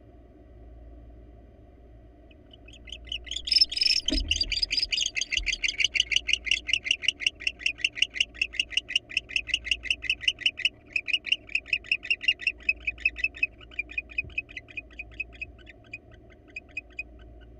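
Barn owl giving a long, rapid run of short twittering chirps that starts about three seconds in and thins out near the end. This is a male's nest-box display meant to draw a female inside. A single thump about four seconds in.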